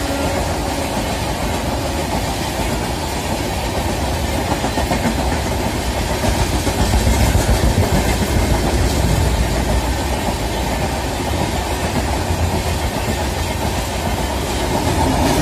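A train passing at speed, with a continuous rumble of wheels on rails that swells to its loudest about seven to nine seconds in.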